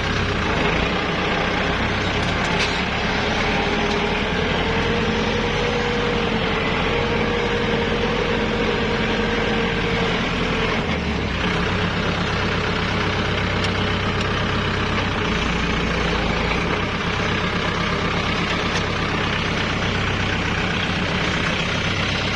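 Kubota L5018SP tractor's diesel engine running steadily, with a faint wavering whine over it for about the first ten seconds.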